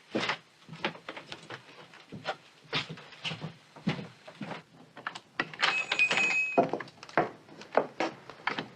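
Footsteps on a floor with scattered knocks and clatter, and a brief high ringing tone a little past the middle.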